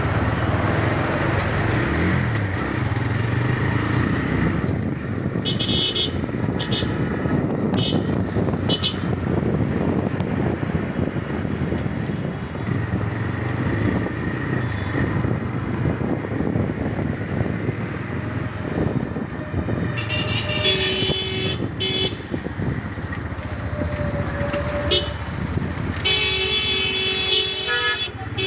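TVS Raider 125's single-cylinder engine running steadily under way, with road and wind noise. Vehicle horns honk in short toots several times: about six to nine seconds in, about twenty seconds in, and near the end.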